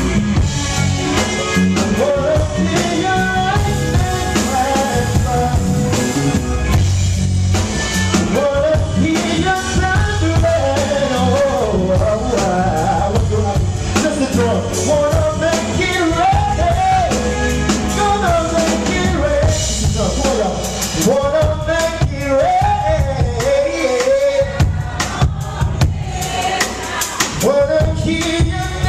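Live R&B performance: a band with drum kit and bass playing while a male lead vocal sings the melody.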